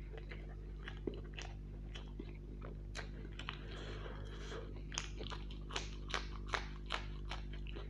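Close-up mouth sounds of chewing a fried snack, then from about five seconds in a run of crisp crunches as a raw green chilli is bitten and chewed. A steady low hum lies underneath.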